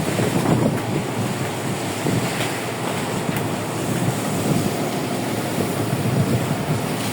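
Strong wind buffeting the microphone over a rough, choppy sea, with steady wash of waves around a small fishing boat.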